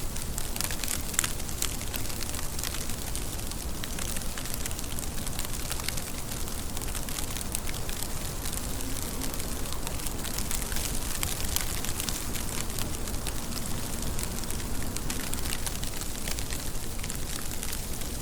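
Steady rainfall: a continuous hiss with a dense patter of individual drops.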